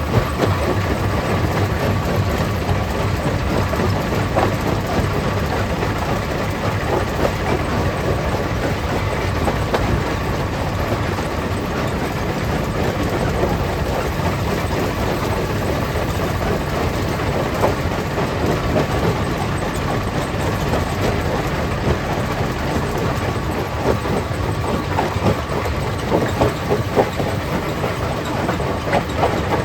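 Stone crusher plant running: a steady heavy mechanical rumble with irregular clattering knocks of rock being crushed.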